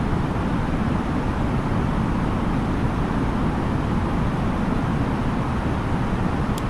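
Steady cabin noise of an Airbus A330-900neo in flight: an even rush of airflow and engine drone, with a faint click near the end.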